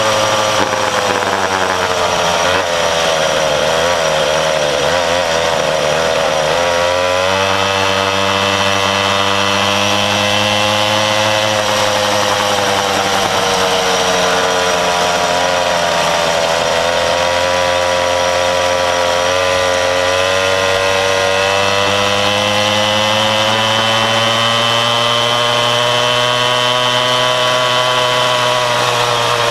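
Mini bike's small engine running continuously, its pitch sinking and rising as the revs change, with a wavering stretch a few seconds in and a jump in revs around seven seconds.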